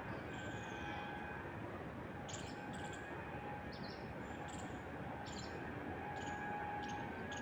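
Small songbirds calling over a steady hiss of wind through trees: a short falling call in the first second, then a string of brief high chirps, roughly one every half second to a second.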